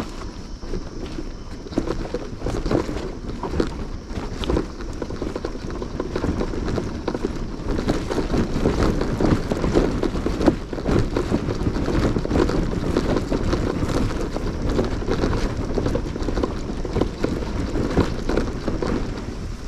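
Motorcycle on the move: engine and wind noise dense with short knocks and rattles, a little louder from about eight seconds in.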